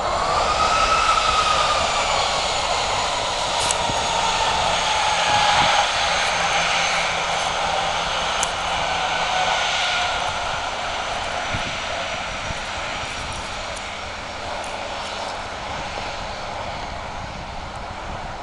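Airbus A319 jet engines at takeoff thrust, a loud steady rush with a whine that slides down in pitch as the airliner passes and draws away, fading gradually.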